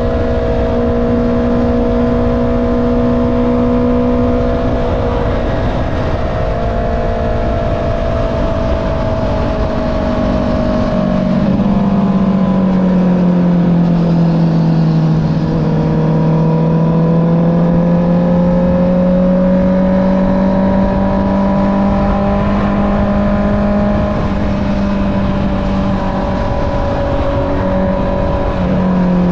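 Honda CB650R's inline-four engine through an Akrapovic exhaust, heard from the rider's seat while riding. The engine note drops about five seconds in and again around the middle, then climbs slowly as the bike picks up speed.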